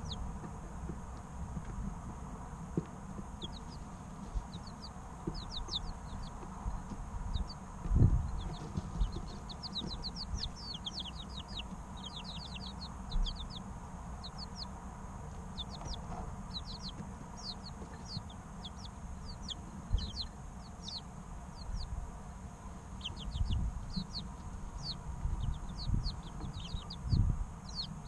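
Three-week-old chicken chicks peeping: many short, high, quickly falling chirps coming in runs. A few low thumps sound among them, the loudest about a third of the way in.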